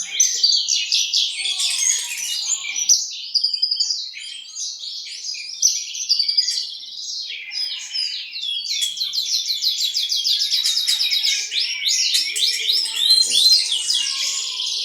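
Javan bush lark (branjangan) singing a long, unbroken song of rapid high chirps and trills, with fast runs of repeated notes in the second half.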